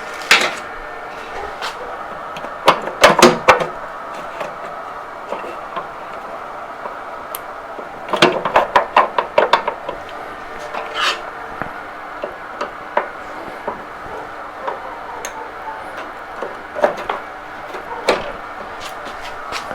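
Hand tools clinking and knocking against the metal wheel hub and axle of a mower, in scattered bursts of sharp clicks and clanks as a stuck wheel is worked loose, over a faint steady hum.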